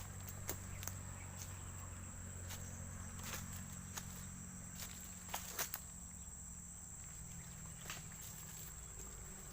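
Irregular footsteps, heard as scattered sharp clicks and crunches, over a steady high-pitched insect drone.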